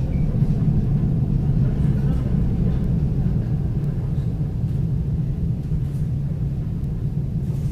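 Steady low rumble of a moving suburban train heard from inside the passenger coach: wheels running on the rails and the carriage running gear, with a few faint clicks.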